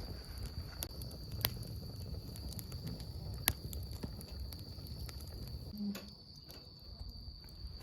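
Wood campfire crackling, with sharp irregular pops, over a steady high-pitched insect trill and a low rumble.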